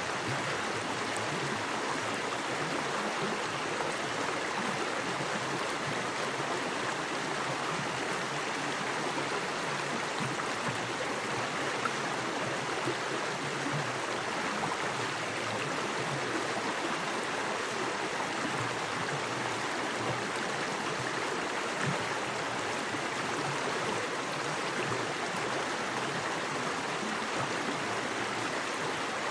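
Small woodland creek, fast water rushing and splashing over rocks in a steady, even rush.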